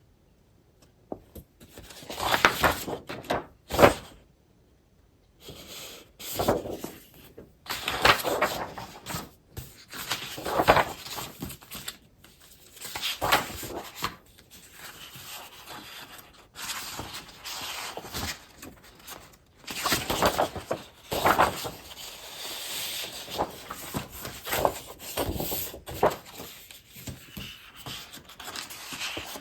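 Scrapbooking paper and packaging being handled and shuffled: irregular rustling, rubbing and crinkling strokes with short pauses between them, starting about a second in.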